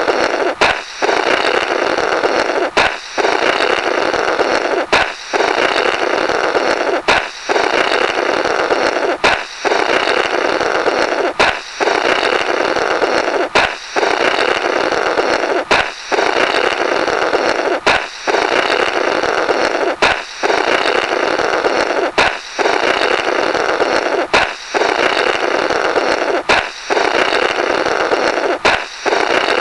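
Comic "blorrrt" balloon sound effect, looped: a balloon pops, then someone blows a long raspy raspberry through the burst rubber. It repeats about every two seconds, each time a sharp pop followed by the sustained blow.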